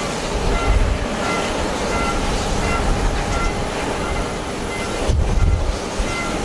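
Strong typhoon wind gusting across the microphone: a steady rushing noise, with heavy low buffeting about half a second in and again around five seconds in.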